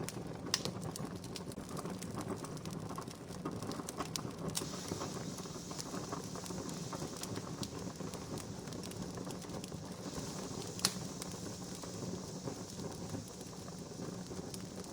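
Wood campfire crackling: a steady hiss dotted with many small sharp crackles, and two louder pops, one about half a second in and one near eleven seconds.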